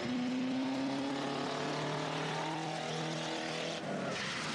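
Car engine running hard at a steady pitch as a stunt car drives across the tarmac, breaking off briefly near the end.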